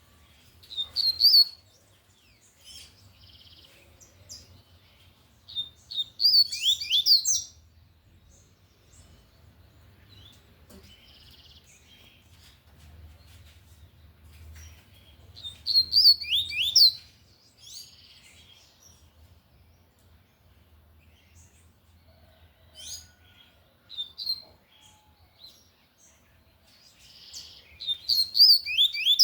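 Double-collared seedeater (coleiro) singing the 'tui-tui' song type loudly: five short phrases of quick, high whistled notes and rapid sweeps, with pauses of several seconds between them.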